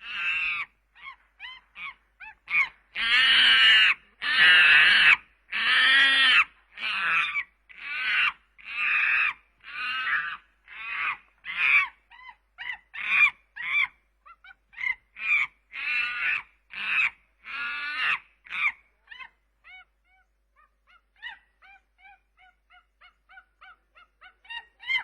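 A long series of loud, harsh animal calls, the longest and loudest a few seconds in, then shorter calls about twice a second that fade into quieter, clipped calls near the end.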